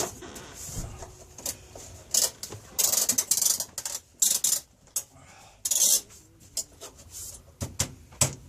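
Metal plumbing fittings and hand tools handled: a run of sharp metallic clinks and clicks, with several short scraping rushes around the middle.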